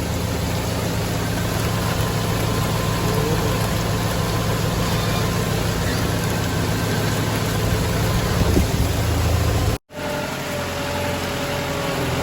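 Tractor engine running steadily. The sound drops out for an instant about ten seconds in, and after that a higher whine joins the engine.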